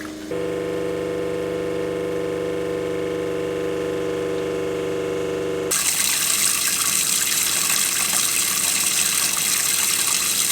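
A boat's freshwater pressure pump runs with a steady hum, pressurising the system to check a newly replaced connection for a leak. Past the middle a loud rushing hiss of water joins in and holds steady.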